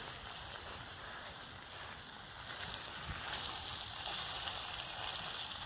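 Prawns, salmon and garlic sizzling in a frying pan over a small wood-burning stove: a steady frying hiss.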